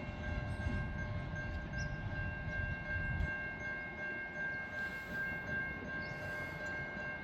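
Low rumble of a long freight train moving off, thinning out about three seconds in, under steady high-pitched warning tones from a level crossing that are still sounding after the train has passed, one of them pulsing near the end.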